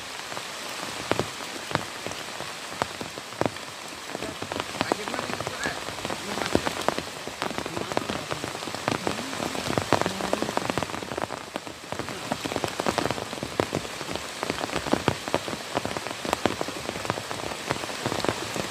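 Heavy rain falling steadily, with a dense scatter of sharp, close drops striking a surface.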